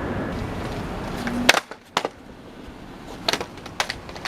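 Skateboard wheels rolling on pavement, then a loud sharp clack of the board striking the ground about a second and a half in, after which the rolling stops. A few lighter clacks of the board follow, one shortly after and a few near the end.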